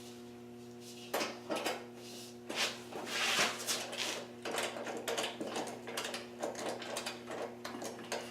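Metal hand tools clicking and knocking as a bolt is worked with a wrench, in irregular clicks with a scraping stretch about three seconds in, over a steady low hum.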